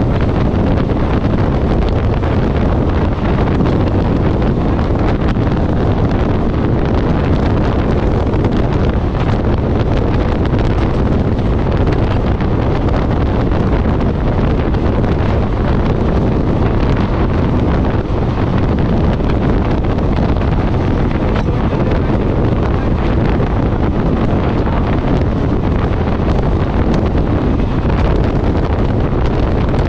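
Passenger train running between stations: a loud, steady rumble of the train in motion, with wind buffeting the microphone.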